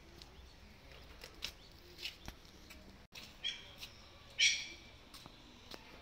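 A bird calling twice, short high calls about three and a half and four and a half seconds in, the second louder and longer. A few faint clicks come before them.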